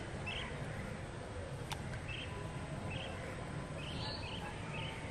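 A bird calling a short high chirp over and over, about once or twice a second, over steady low background noise. A single sharp click sounds about a second and a half in.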